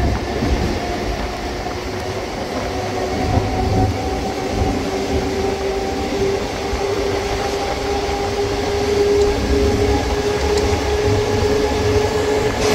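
Mumbai suburban electric local train running, heard from aboard: a steady rumble of wheels on the track with a whine that climbs slightly in pitch as it goes.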